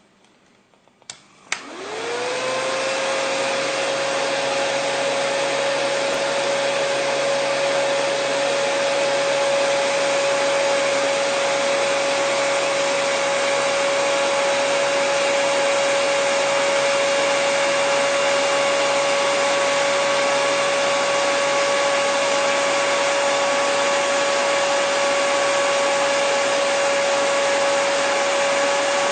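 Hair dryer switched on with two clicks about a second in. Its motor spins up with a quickly rising tone, then runs steadily with a constant hum over the rush of air.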